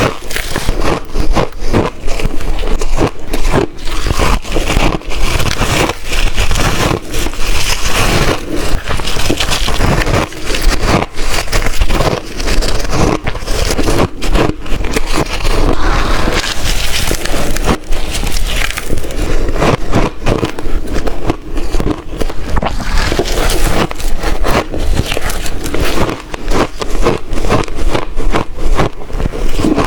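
Hard, crunchy shaved ice chunks being chewed: a loud, dense, continuous run of crunches and cracks.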